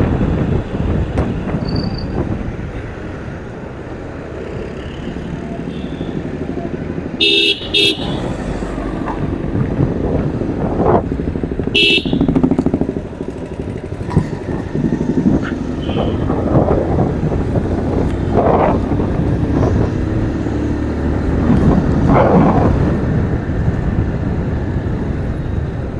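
Road and engine noise heard while riding a motorcycle through city traffic, with vehicle horns honking: short toots about seven seconds in and another around twelve seconds.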